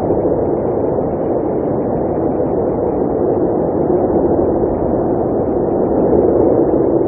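Blizzard wind blowing in a steady, dense rush that swells slightly near the end.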